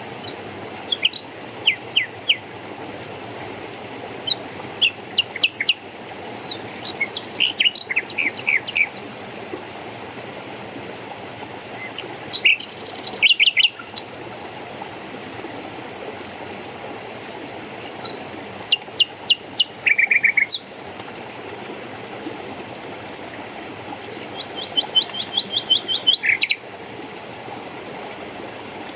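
Songbirds chirping and trilling in short bursts over the steady rush of flowing water, with a quick run of evenly repeated high notes near the end.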